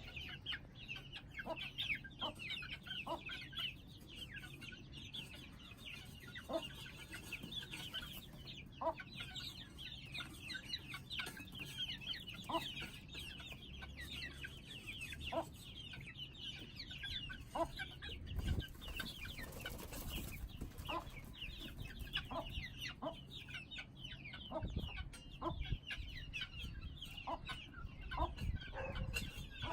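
A group of young Aseel chickens, about 50 days old, peeping and cheeping continuously in many overlapping short high calls, with scattered lower clucks. A few dull low thumps come in the second half.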